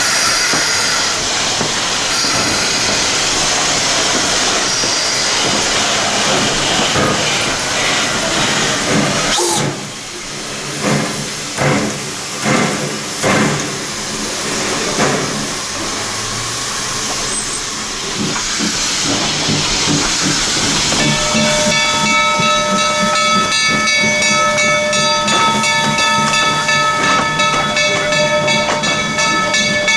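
Steam locomotive venting steam in a loud, steady hiss that stops about a third of the way in. A handful of separate puffs follow, and about two-thirds through a steady, held ringing tone sets in and lasts to the end.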